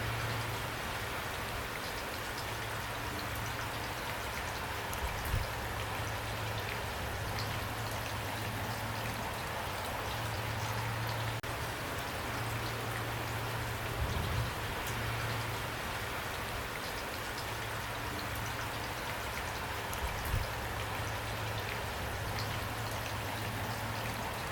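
Steady rain falling, an even hiss with scattered individual drops ticking and a few brief low thumps.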